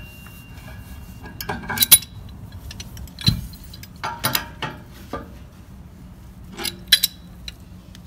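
Scattered metal clinks and knocks of a wrench working the brass union nut of a new valve onto an old cast-iron radiator as the threads catch and the nut is tightened, with a low thump a little after three seconds in.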